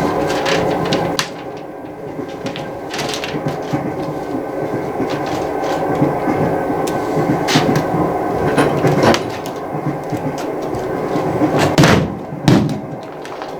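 Steady rumble and rattle of a train, most likely a sound effect for the stage, with sharp knocks and thuds here and there, the loudest near the end.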